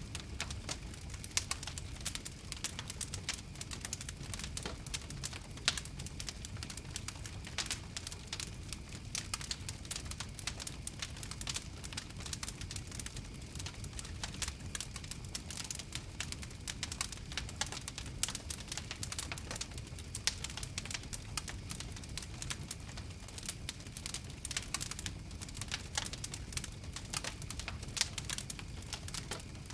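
Campfire crackling: many irregular small pops and snaps over a steady low rumble of the flames.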